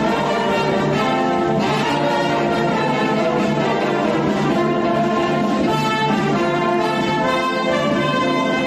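A band playing music, with brass instruments carrying the melody over a steady low beat.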